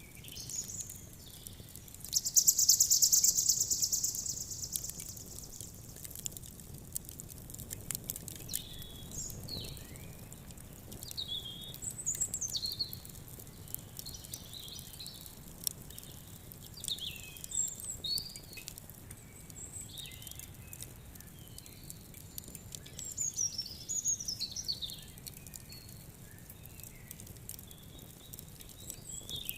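Songbirds chirping and warbling on and off, over the scattered snaps of a crackling campfire. About two seconds in, a loud, high buzzing trill lasts about two seconds.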